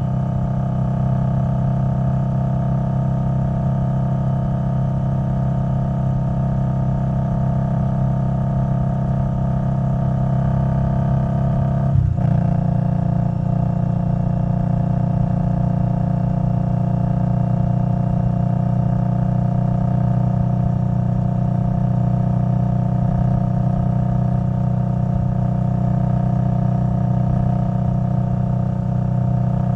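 Indian Scout Bobber Twenty's liquid-cooled V-twin running steadily under way through a Vance & Hines Twin Slash exhaust. About twelve seconds in there is a short click where the engine note shifts slightly.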